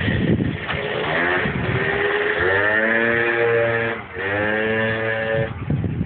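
Aerox scooter's big-bore engine revving twice. The pitch climbs over about two seconds and holds high, dips sharply about four seconds in, climbs and holds again, then drops back near the end.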